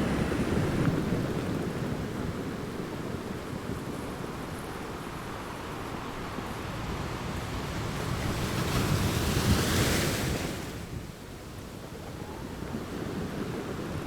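Ocean waves washing on a shore, a steady rushing surf that swells into a louder breaking wave about nine to ten seconds in. About eleven seconds in it drops away to a quieter, steady hiss.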